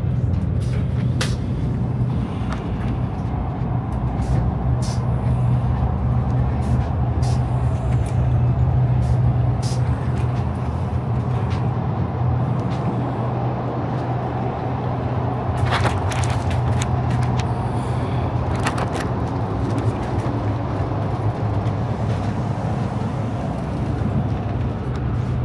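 Cabin noise inside an Iryo high-speed train: a steady low hum over continuous rumbling rolling noise, with scattered sharp clicks and knocks that bunch together about two-thirds of the way through.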